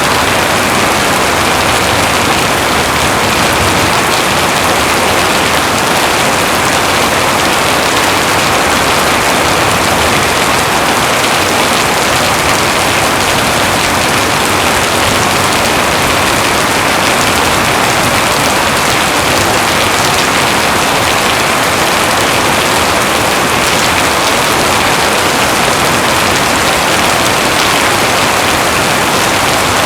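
Heavy rain pouring steadily, a dense even hiss of rain with no breaks or distinct claps.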